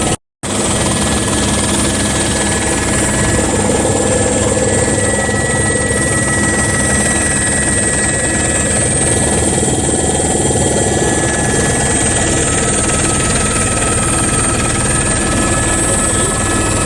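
Helicopter running steadily, its rotor and engine sound continuous, with a very short break just after the start.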